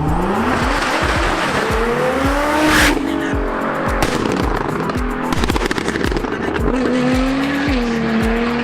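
Nissan GT-R R35's twin-turbo V6 through an Armytrix valved exhaust, accelerating hard: the engine note climbs for about three seconds, drops sharply at a gearshift, then climbs again and holds. Background music with a steady beat plays underneath.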